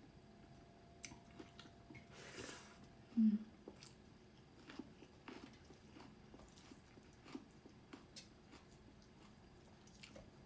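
Close-miked eating of dhido and chicken curry: soft chewing with small wet mouth clicks, a breath about two and a half seconds in, and a short vocal hum just after.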